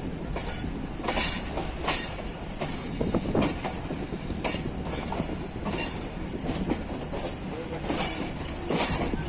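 Passenger train's coach wheels running over the station yard's rail joints and points: a steady rumble with irregular sharp clicks and clacks, heard from aboard the coach.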